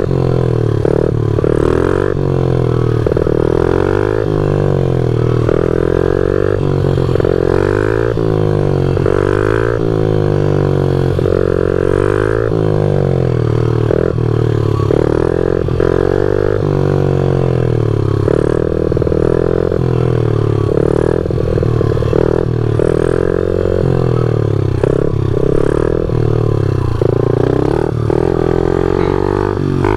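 Honda CRF50 pit bike's small single-cylinder four-stroke engine, loud, revving up and down again and again under throttle while being ridden. Its pitch rises and falls every second or two.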